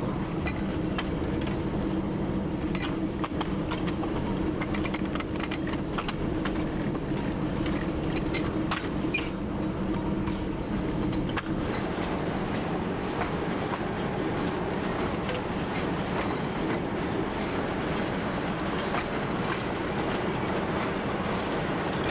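TU7 narrow-gauge diesel locomotive under way, its engine running steadily while the wheels click over the rail joints. The steady engine tone is plainest in the first half; from about halfway through a rougher running noise takes over.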